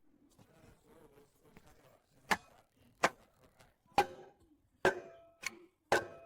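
Six sharp knocks, roughly one a second, over a faint clatter; the later knocks leave a brief ringing tone.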